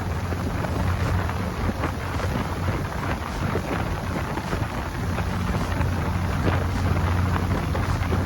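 Small ferry boat's engine running steadily with a low drone, under heavy wind buffeting the microphone and the rushing hiss of the boat under way.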